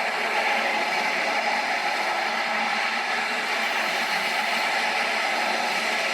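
Airbus A340 jet engines running with a steady, even noise that holds level and does not change pitch.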